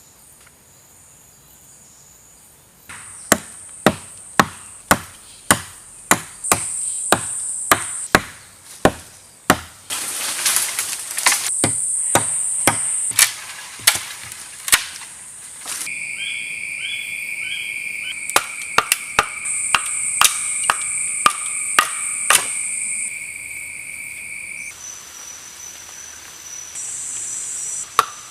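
Wood being chopped with sharp, separate blows, about one or two a second with short pauses, as a bow is cut from wood.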